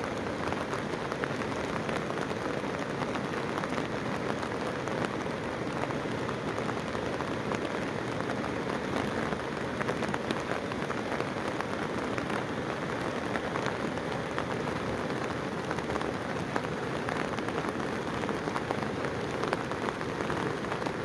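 Steady rush of water: an even, unbroken hiss with no change over the whole stretch, from heavy rain or floodwater.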